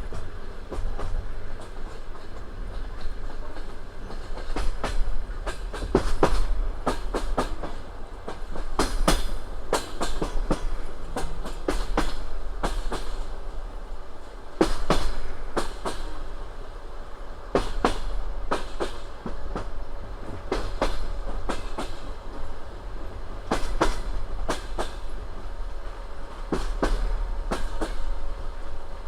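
Passenger train wheels clicking over rail joints in the familiar clickety-clack, with the groups of clicks coming every few seconds over a steady low rumble of the moving carriage.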